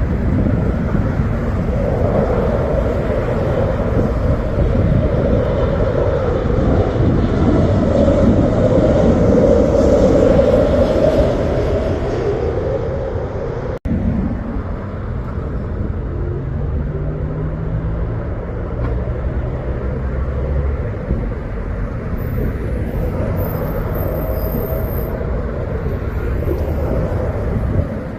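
Jet airliner engines at takeoff power, a loud steady rush of noise. A cut about 14 seconds in gives way to a lower, steadier rumble.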